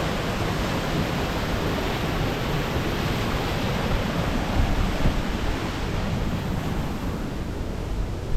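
Waterfall pouring in a steady, unbroken rush of water with a deep rumble underneath.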